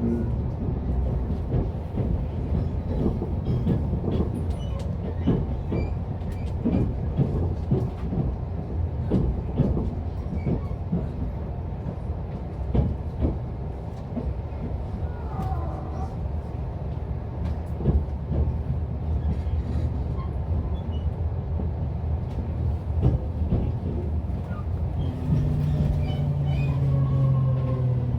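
Interior running sound of a JR Central 383 series electric express train: a steady low rumble with wheels knocking over rail joints and points. Near the end, the VVVF inverter and traction motor whine slides down in pitch as the train slows for its terminal stop.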